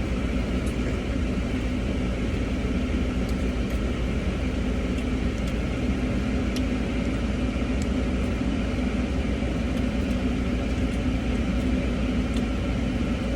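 Steady hum of a car idling, heard from inside the cabin, with a few faint clicks.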